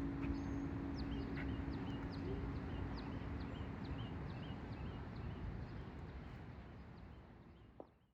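A songbird repeats a short, quick downward-slurred chirp, about two a second, over a steady hiss. The last held note of the music dies away in the first few seconds, and everything fades out near the end with a soft click just before.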